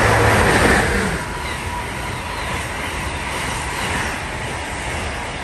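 Amtrak electric train with Amfleet coaches rushing past a station platform at speed. It is loudest as the head end goes by in the first second, then a steady rush of wheels and cars as the coaches stream past.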